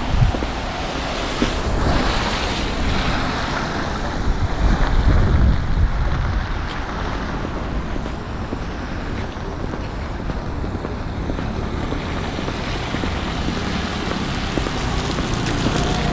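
Outdoor city ambience of traffic on wet road, a steady hiss of tyres with wind on the microphone, swelling briefly about five seconds in.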